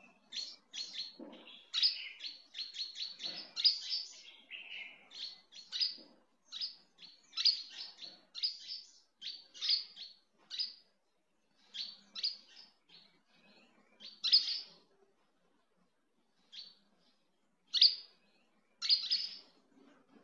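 Small birds chirping: a quick run of short, high chirps that thins out to scattered single chirps in the second half.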